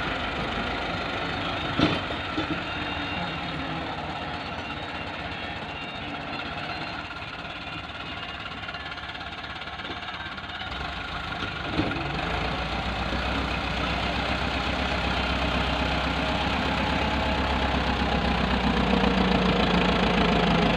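Massey Ferguson 385 tractor's diesel engine running with a knocking clatter, a couple of sharp knocks near the start and the middle. About eleven seconds in the engine note grows deeper, and the sound rises slowly in loudness toward the end.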